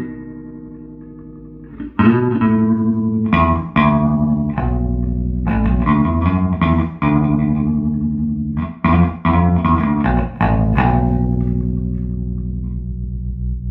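Electric bass guitar played through a 1973 Fender Twin Reverb silverface combo with its 1978 CTS speakers, on the vibrato channel with the vibrato at full speed and reverb on: plucked notes and short phrases. A last note rings out near the end, throbbing rapidly in volume.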